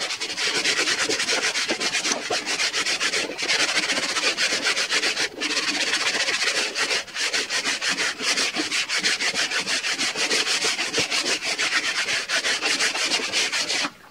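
Wooden rail strip being hand-sanded with fast back-and-forth strokes, a steady scratchy rasp broken by a few brief pauses and stopping suddenly at the end.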